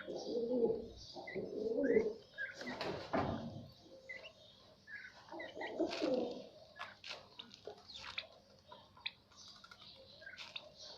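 Domestic turkeys calling: low warbling calls in the first few seconds and again near the middle, short high peeps scattered throughout, and a scattering of sharp clicks.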